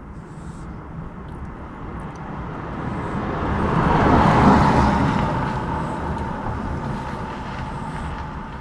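A vehicle passing by: a rush of noise that swells, is loudest about four and a half seconds in, then fades away.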